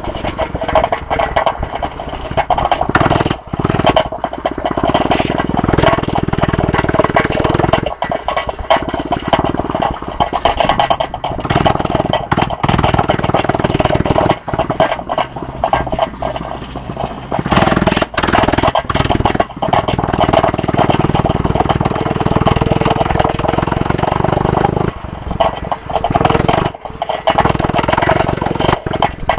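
Small dirt bike being ridden around a grass track, its motor and drive running continuously with brief dips in level as the rider rides the track.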